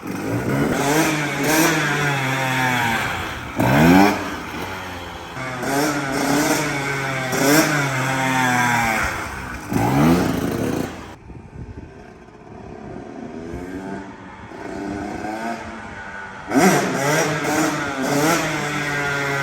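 GasGas MC125 two-stroke dirt bike engine revving hard. Its pitch shoots up steeply three times and holds high between the climbs, with a quieter, lower stretch in the middle where the throttle eases off.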